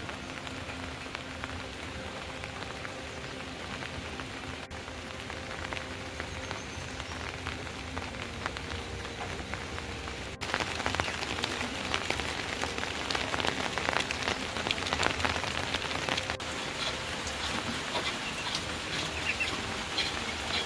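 Rain falling on a surface, a steady patter of many fine drops. It gets louder and denser from about ten seconds in.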